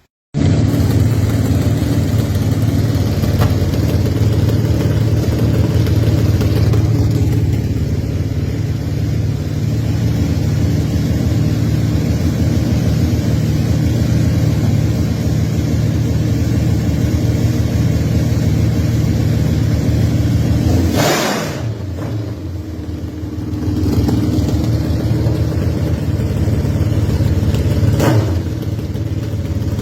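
Motorcycle engine running steadily, with a brief drop in level about three-quarters of the way through.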